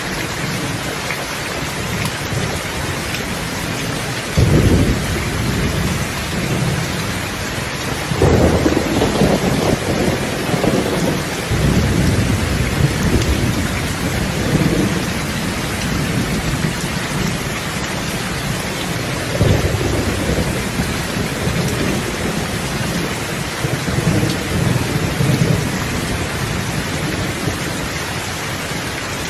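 Steady, heavy rain hissing on surfaces, with thunder rolling through it: several low rumbles break in suddenly, the first about four seconds in, and each rolls on for a few seconds before fading back under the rain.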